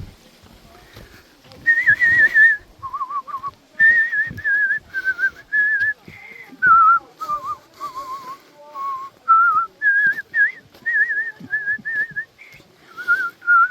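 A person whistling a slow tune: a string of held notes with a wavering vibrato, stepping between higher and lower pitches.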